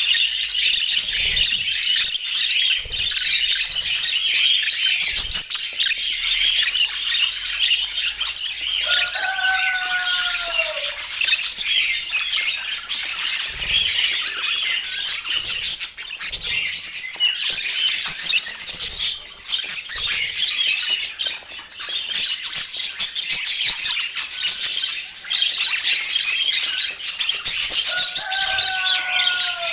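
A flock of budgerigars chattering and warbling: dense, continuous high chirps. Two lower calls that fall in pitch stand out, about nine seconds in and again near the end.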